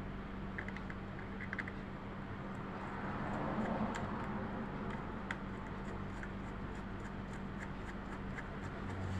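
Faint scratching and small scattered clicks of hands working on sewing machine parts, over a steady low hum.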